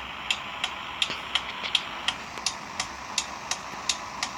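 Hazard-light flasher clicking steadily, about three clicks a second, over the Ford F-150's engine idling.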